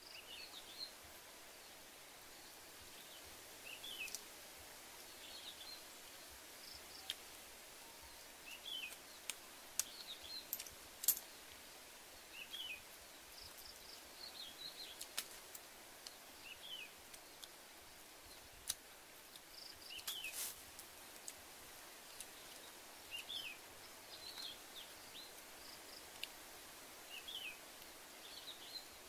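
Outdoor forest ambience: a bird repeats short, high, falling chirps every second or two over a steady hiss. A few sharp clicks stand out, the loudest about eleven seconds in.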